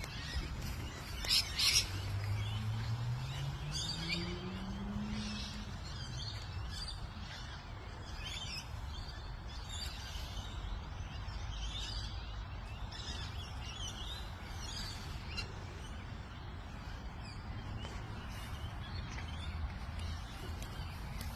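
Several birds chirping and calling over a steady low rumble, with one louder call about a second and a half in. A low hum rises in pitch a couple of seconds in.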